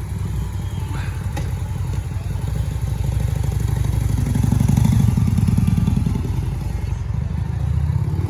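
Harley-Davidson V-Rod Muscle's V-twin running through short slash-cut turnout mufflers, a low pulsing rumble that swells about four seconds in and eases back near the end. Not very loud, with only gentle throttle.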